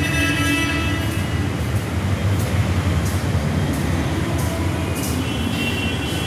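Steady low rumble inside a pedestrian underpass, with faint high tones in the first second and again near the end.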